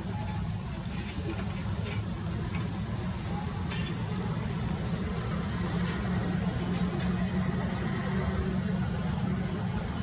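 Crane truck's engine running steadily with a low, even sound, and a few faint clicks over it.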